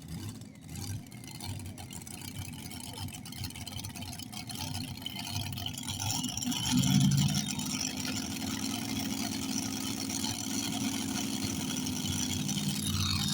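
A pulling vehicle's engine idling, revving up briefly about seven seconds in, then settling back to a steady idle.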